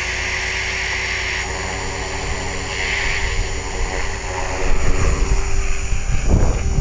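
Small electric RC helicopter running with a steady high whine from its brushless motor and gears and a hum from the rotors. Wind buffets the microphone, growing stronger about five seconds in.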